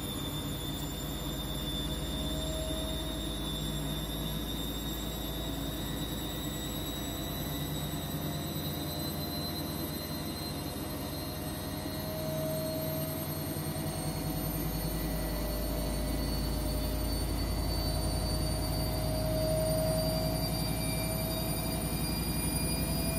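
Siemens washing machine spinning: a steady drum rumble and motor hum, with a thin whine that slowly rises in pitch as the drum speeds up. It gets a little louder about two-thirds of the way through.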